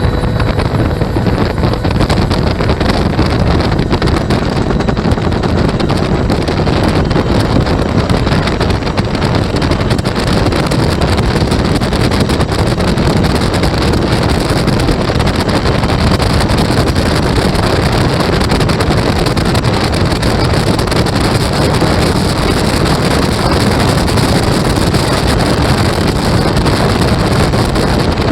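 Bell UH-1 Huey with a two-blade main rotor in flight, heard from the cabin: its turbine engine and rotor run at a steady, loud level, with wind buffeting the microphone.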